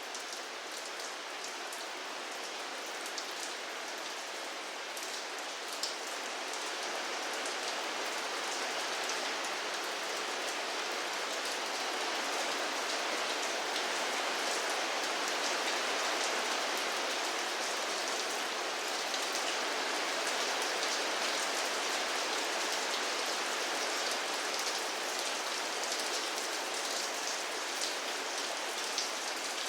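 Steady rain falling on a surface, a dense even hiss with scattered individual drop ticks, growing a little heavier a few seconds in.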